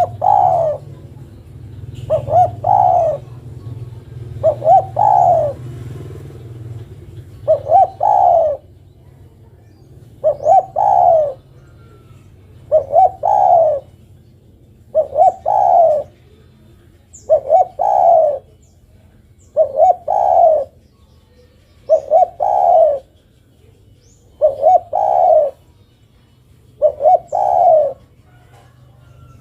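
Female spotted dove (derkuku) cooing, repeating its short call phrase about every two and a half seconds.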